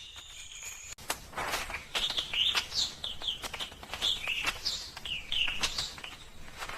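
High-pitched chirping: many short squeaky chirps, each quickly bending up and down in pitch, begin about a second in and repeat irregularly, with sharp clicks between them.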